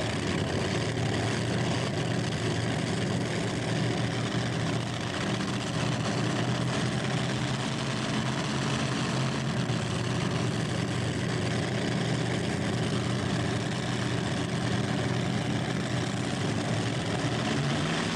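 Competition pulling tractor's engine running flat out under full load as it drags the weight-transfer sled down the track, a loud, steady engine noise with no let-up.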